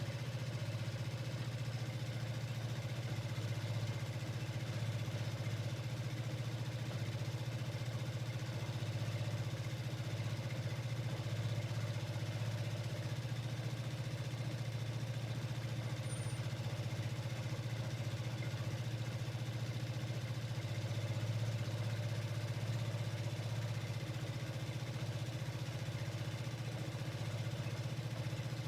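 Vespa Sprint 150's single-cylinder four-stroke engine idling with a steady, even low hum and no revving.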